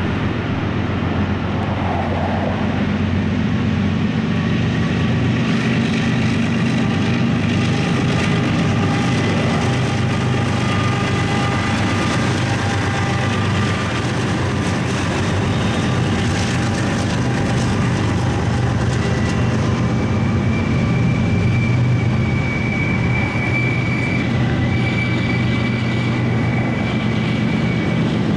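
Freight train led by Union Pacific and Ferromex diesel locomotives working up a grade, their engines running with a steady, heavy drone. A thin high squeal joins about twenty seconds in and holds to the end.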